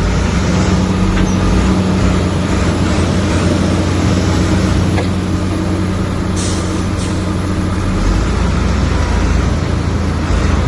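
Heavy diesel engine of earthmoving machinery running steadily under load, with two short hisses a little past the middle.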